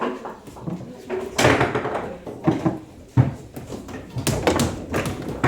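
Table football in play: a run of sharp, irregular knocks and clicks as the ball is struck by the players' figures and bangs against the table walls and rods.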